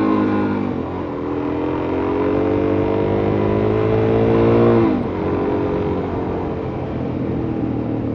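Suzuki DR-Z400S single-cylinder four-stroke engine pulling under throttle. Its pitch climbs steadily for about four seconds, drops sharply about five seconds in, then holds steadier at a lower pitch.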